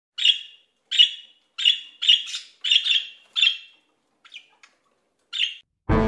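A bird chirping: about seven short, sharp calls in a steady series, roughly one every two-thirds of a second, with a pause and two faint short chirps before a last call. Piano music starts just at the end.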